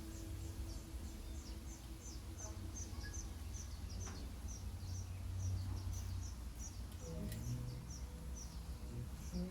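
A bird calling in a steady series of short, high, falling chirps, about two or three a second, over a low steady rumble of outdoor noise.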